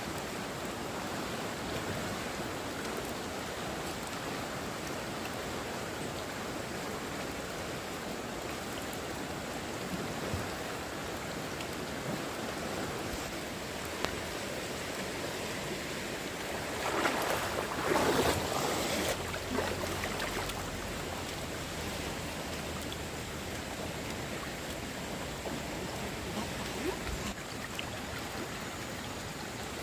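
Flowing stream water, a steady rushing noise, with a louder disturbance lasting about two seconds a little past the middle.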